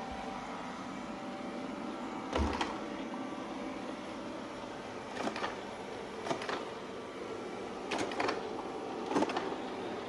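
Shark ION Robot robot vacuum running with a steady motor whir, broken by five short clattering bursts spaced one to three seconds apart.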